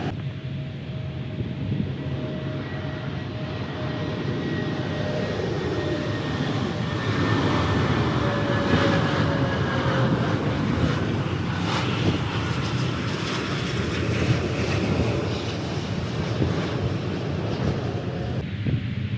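Jet airliner passing low on its landing approach. The engine noise builds to a peak about halfway through and then eases. A whine in it slowly falls in pitch as the plane goes by.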